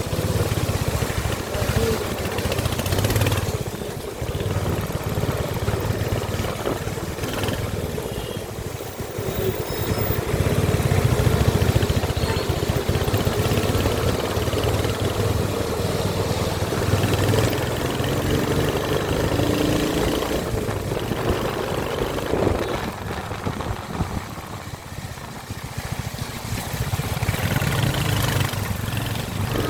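Royal Enfield Hunter 350's single-cylinder engine running continuously, a steady low-pitched exhaust note whose level rises and falls through the stretch.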